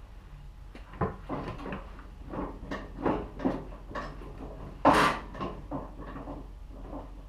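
Irregular knocks and clanks of parts and tools being handled, about a dozen in a few seconds, the loudest and sharpest about five seconds in, over a steady low hum.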